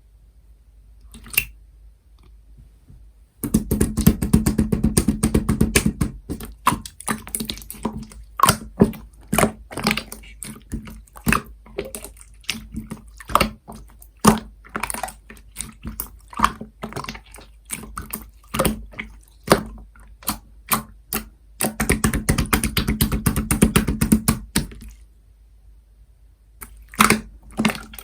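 Hands squishing and poking an opaque pastel slime, making sticky wet pops and clicks. Two stretches of fast, dense squishing, one a few seconds in and one later, with many separate sharp pops between them.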